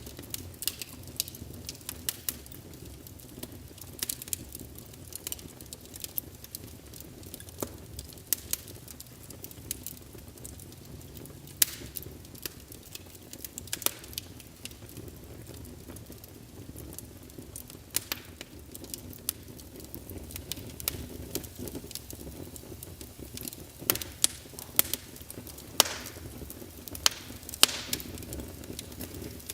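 Logs burning in a fireplace, crackling with frequent sharp pops over a steady low rumble of flame. A cluster of louder pops comes near the end.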